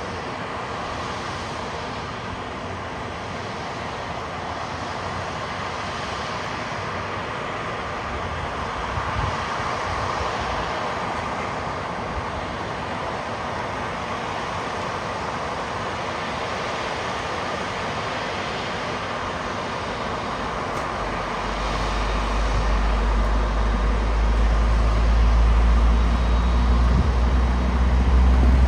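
Jet airliner engine noise: a steady rushing hum, joined about three-quarters of the way through by a deep rumble that grows louder.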